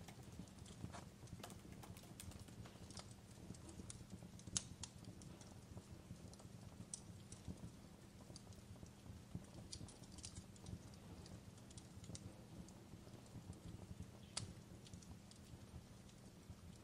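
Fireplace crackling faintly: irregular sharp pops and snaps over a low steady rumble, with louder pops about four and a half seconds in and again near the end.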